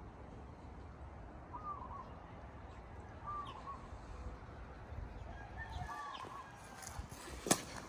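A bird gives three short, curling calls a second or two apart, over a steady low rumble. A sharp click comes near the end.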